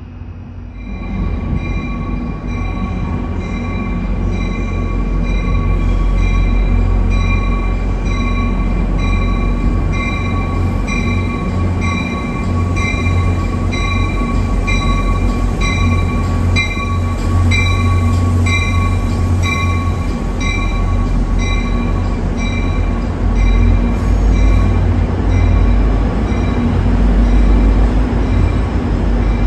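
NJ Transit Atlantic City Line commuter train, MultiLevel cab car leading, pulling slowly into the station platform: a loud steady low rumble that swells in over the first couple of seconds. Over it a high ringing tone repeats about once a second.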